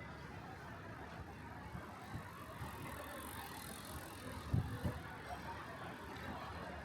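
City street ambience: a steady hum of traffic and town noise, with two short low thumps about four and a half seconds in.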